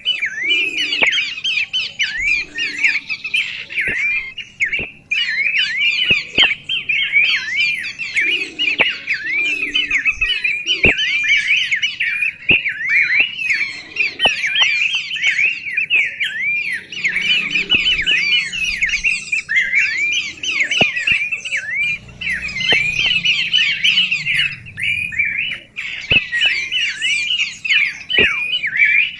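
A songbird singing without pause in quick, high, chirping notes, with short sharp clicks scattered through the song.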